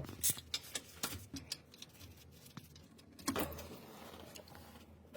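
Hand tools clicking and tapping on engine parts in quick, irregular clicks, dense for about two seconds and then thinning out. A short scraping noise comes about three seconds in.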